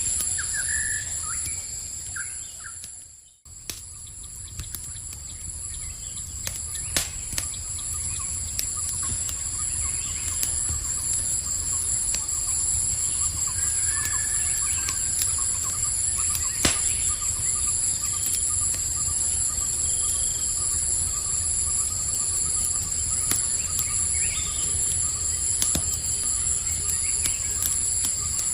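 Campfire crackling with a few sharp pops, under a steady high chirring of night insects. There are a few short chirps near the start, and the whole sound dips almost to silence for a moment about three seconds in.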